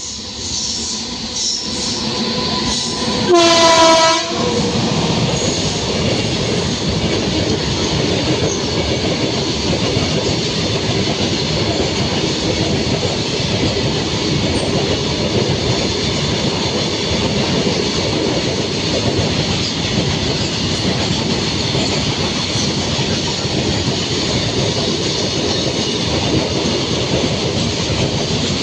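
Long freight train running past, its wheels rumbling and clattering steadily on the rails, with one loud train horn blast of about a second, about three seconds in.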